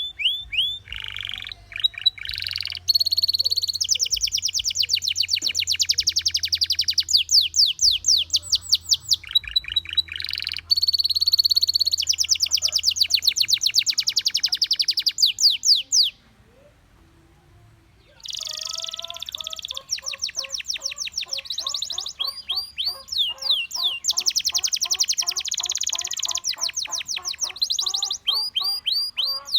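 Gloster canary singing, with fast trills and rolls of rapidly repeated notes in long unbroken phrases. The song breaks off for about two seconds past the middle, then starts again.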